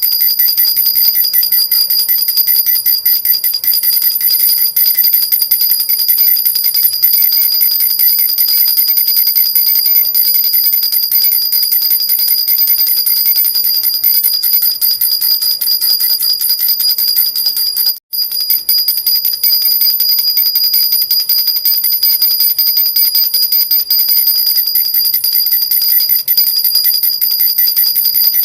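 Metal baby rattle (jhunjhuna) with small bells, shaken continuously in a dense, fast, high-pitched jingling, breaking off for an instant about eighteen seconds in.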